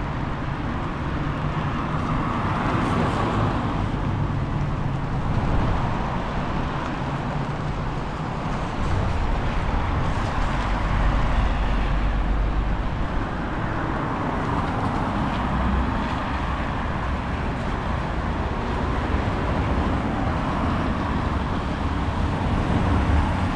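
Town street ambience: road traffic passing, swelling and fading a few times, over a steady low rumble of wind on the microphone.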